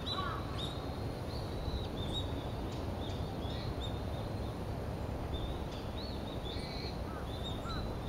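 Wild birds calling: scattered short, high chirps and whistles, with a few lower rising calls near the end, over a steady low background noise.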